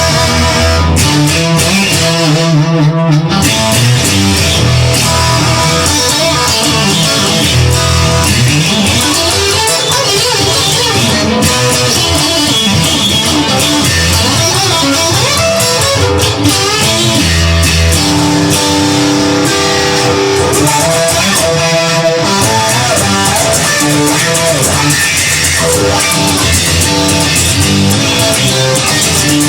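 Rock music: an instrumental passage led by guitar over bass, with no vocals.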